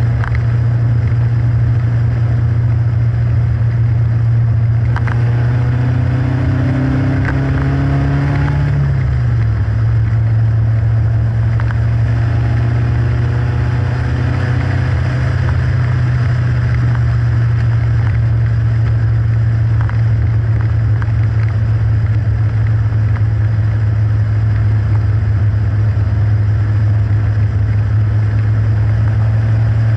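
Westfield's 1.8-litre Ford Zetec four-cylinder engine driving on the road under a steady low rumble of wind and road noise. The engine note climbs from about five seconds in and drops away near nine seconds, rises briefly again a few seconds later, then settles to a steady cruise.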